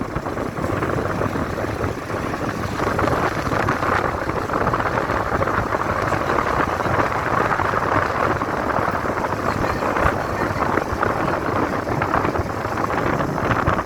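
Steady rumble and hiss of a vehicle on the move, heard from inside.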